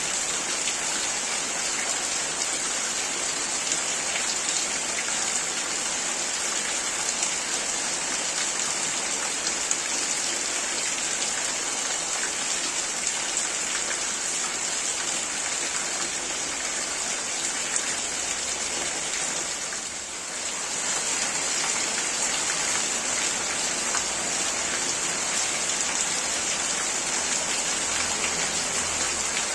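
Heavy rain falling steadily, a continuous hiss of drops on surfaces that dips briefly about two-thirds of the way through.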